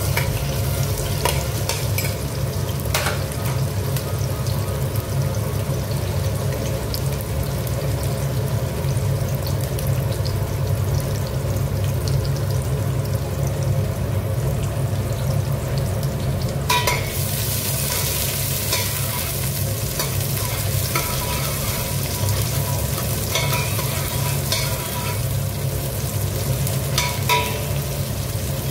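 Sliced shallots and garlic sizzling in hot oil in a stainless steel pot, with a spoon clicking and scraping against the pot as they are stirred. The sizzle gets louder and brighter a little past halfway. A steady low hum runs underneath.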